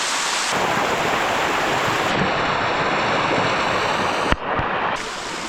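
Rushing water of the Bua Tong sticky waterfall pouring over its mineral-crusted rocks, loud and close, with its character changing abruptly a few times and one brief knock a little past four seconds in.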